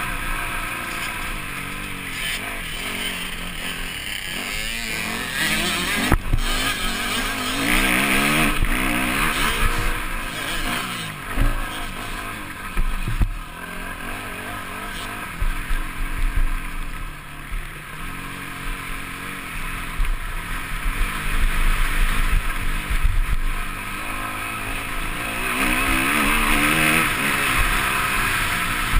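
Motocross bike engine heard up close from the bike itself, revving up and dropping back again and again through gear changes and throttle on and off, over a constant rush of wind. A few sharp knocks cut through, the loudest about six seconds in.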